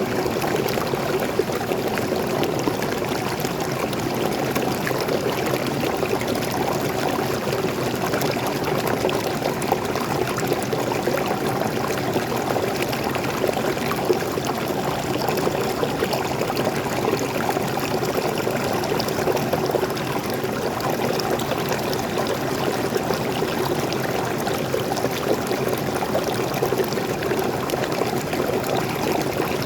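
Waterfall water pouring and splashing into a stream, a steady continuous rush with no let-up.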